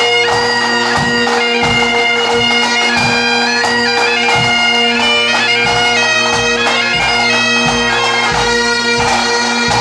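Pipe band playing: Great Highland bagpipes with steady drones under the chanter melody, and drums beating time.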